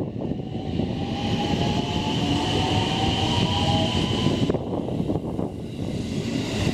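Electric train running by on the JR Hanwa Line: a heavy rumble of wheels on rail with a faint whine. A high steady squeal sounds through the first four and a half seconds, then stops, and the train grows a little quieter.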